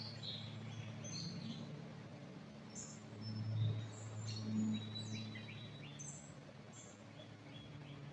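Small songbirds chirping and calling in short whistled notes, busiest around the middle, over a steady low background hum.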